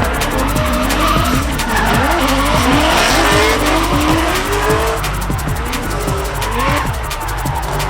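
Drift cars' engines revving up and down over and over, with tyre squeal and skidding, under background music.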